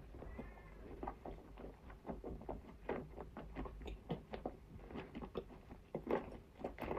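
A person chewing nzu, edible clay, close to the microphone: a quiet run of small, irregular crunches and clicks several times a second.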